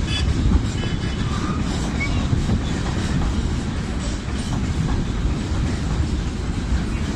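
A train running on the rails, a steady noise heavy in the low range.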